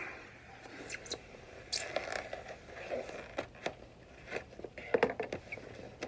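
Cardboard box and foam packaging being handled and pulled apart: irregular scrapes, rustles and knocks, loudest in a cluster about five seconds in.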